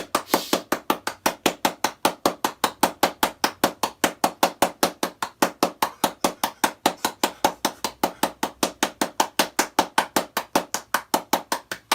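A fast, perfectly even rhythm of sharp knocks, about five a second, running without a break.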